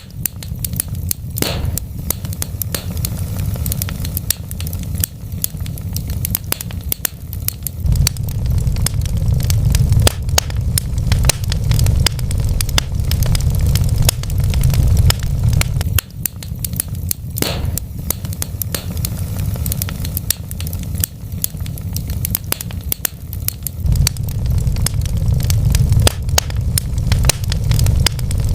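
Wood fire crackling with many small pops and two louder snaps, over a steady low rumble that swells and eases every few seconds.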